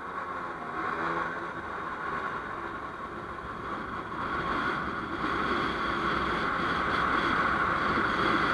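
Vehicle moving along a road: a steady mix of engine and road noise that grows gradually louder.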